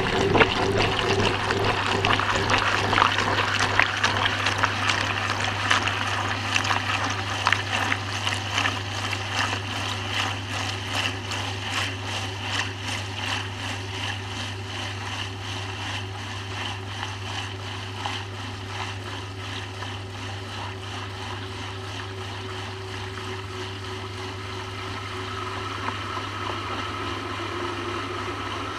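Water draining and trickling inside a Maytag washing machine tub, heard from inside the tub, over a steady low hum from the machine's pump. The water noise slowly fades as the tub empties.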